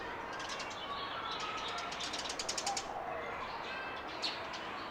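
Garden birds chirping and calling, with a quick run of rapid chirps a little past halfway and a few soft whistled notes, over a steady background hiss.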